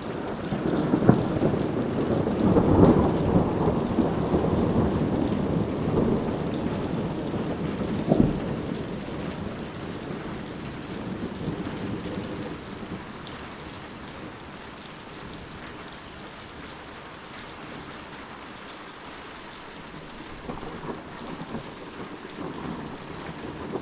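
Steady rain with rolling thunder: a long rumble swells in the first few seconds, a sharper clap comes about eight seconds in, then it dies away to the rain alone, and thunder rumbles again near the end.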